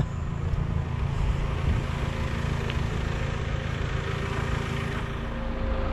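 Car engine idling steadily as a low rumble with a faint hum, under the hiss of light rain.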